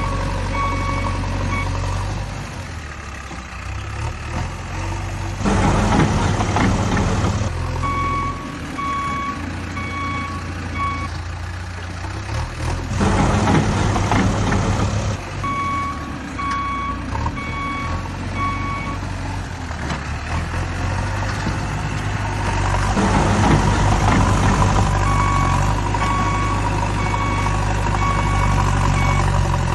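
A vehicle's reversing alarm beeping in several short runs over a steady low engine hum. Three loud bursts of rushing noise break in, about 6, 14 and 24 seconds in.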